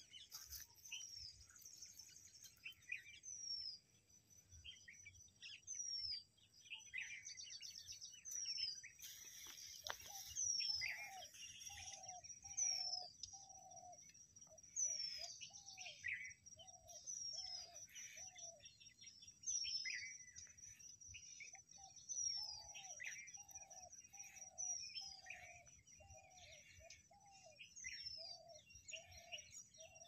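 Birds calling: a short, high, falling call repeated about every two seconds over scattered chirping. Runs of lower, evenly paced calls, about two a second, come in about a third of the way through and again over the last third.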